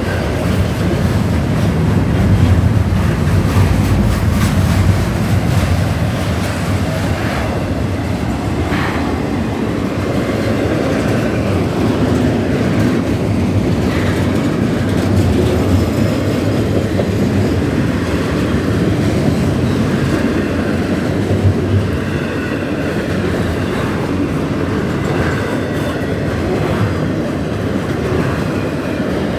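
Norfolk Southern freight train, mostly intermodal cars, rolling steadily past at a grade crossing: loud, continuous wheel-on-rail noise.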